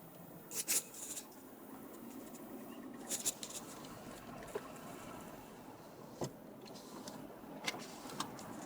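2004 BMW E60 driving, steady road and running noise with sporadic sharp rattling clacks, the loudest about a second in and a few more scattered after. The rattle depends on speed and comes mostly under load, and the owner suspects it comes from the rear underbody.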